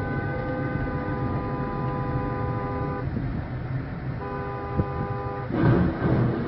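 Vehicle horn sounding in two long blasts, the first about three seconds long and the second over a second, over a steady low engine and road rumble. Near the end the rumble swells with a few dull knocks.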